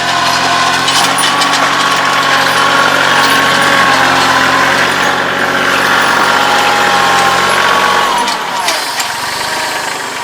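Kioti CK2610 compact tractor's three-cylinder diesel engine running steadily at working revs. About eight seconds in the engine note falls as the revs drop back.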